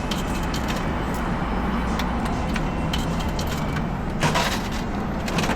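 Scattered clicks and a short plastic rattle about four seconds in, over a steady background din: a capsule-toy (gacha) machine being worked and its plastic capsule handled.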